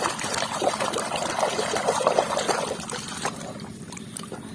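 Water trickling and pouring over a muddy plastic toy as it is rinsed clean, growing quieter after about three seconds.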